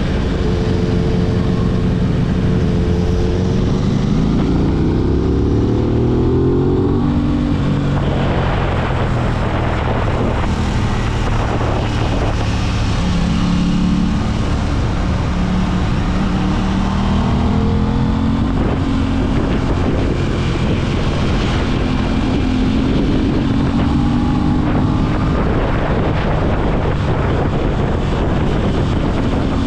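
Aprilia RS 660 parallel-twin engine heard from onboard the moving motorcycle: the engine note climbs under acceleration, drops away about seven seconds in, then rises and falls repeatedly as the throttle is worked. Wind rushes over the microphone throughout.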